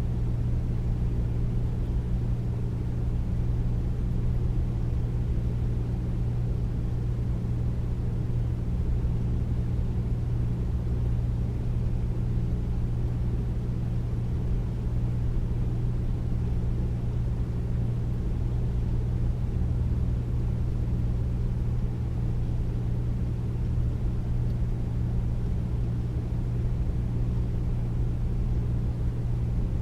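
Air conditioner running steadily: a deep, even hum with a low drone and soft air noise, unchanging throughout.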